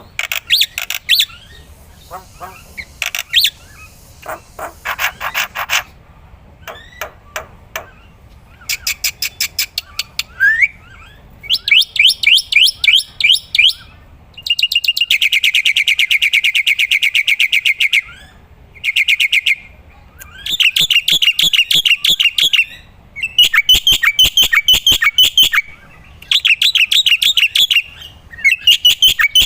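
Black-winged myna (jalak putih) singing loudly in bursts of rapid, chattering repeated notes with short gaps, with one long, even trill about halfway through.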